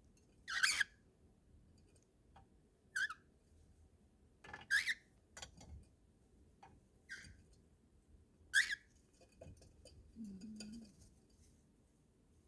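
Cockatiel giving short, sharp chirps, about six of them spaced a second or two apart.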